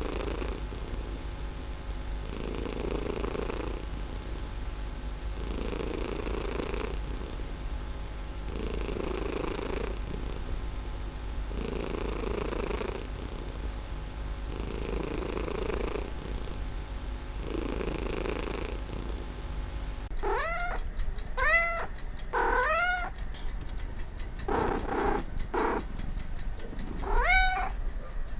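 A cat purring, swelling and easing about every three seconds as it breathes in and out. About twenty seconds in this gives way to a cat meowing repeatedly: short, high meows that rise and fall in pitch.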